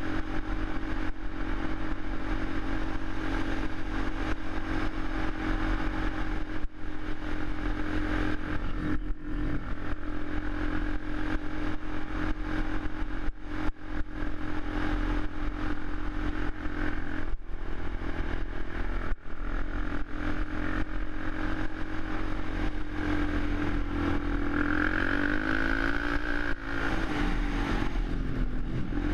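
Suzuki LTZ 400 quad's single-cylinder four-stroke engine running steadily, with a brief rise and fall in revs near the end.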